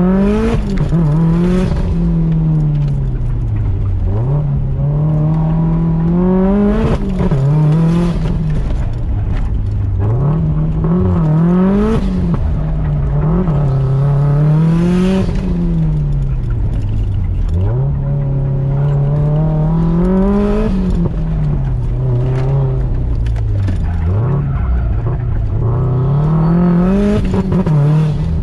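2008 Subaru Impreza WRX STI's turbocharged 2.5-litre flat-four engine, heard from inside the cabin, revving hard and falling back over and over, every two to four seconds, as the car accelerates and brakes through an autocross course.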